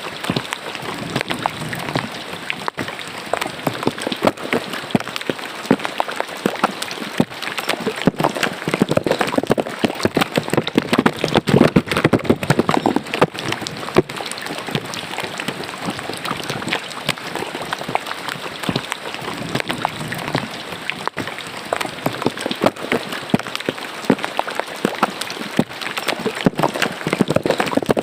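Rain falling into a roadside drain: a steady, dense patter of drops splashing on water.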